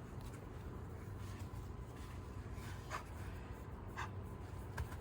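Faint scratching and rustling from a puppy at play, with a few soft ticks over a low steady hum.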